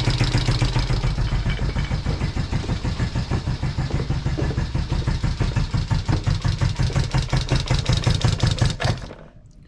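1973 Honda CB350's air-cooled parallel-twin engine running at a steady idle with rapid even exhaust pulses, then cutting off suddenly near the end.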